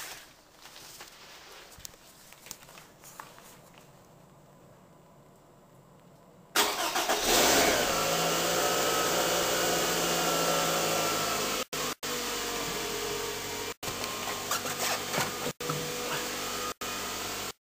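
2008 Scion's engine cold-starting after three weeks unused in freezing weather. After about six seconds of faint shuffling, the engine suddenly cranks and catches, loudest for a second or so, then settles into a steady idle. The sound cuts out for an instant several times.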